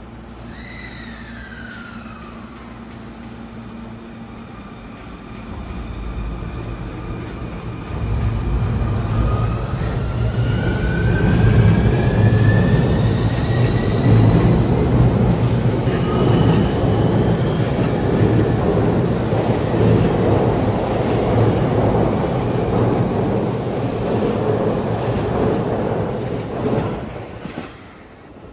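Sotetsu 20000 series electric train pulling out and accelerating past. Its motor whine rises in pitch over the rumble of the wheels, is loudest about twelve seconds in, and drops away quickly near the end as the train clears.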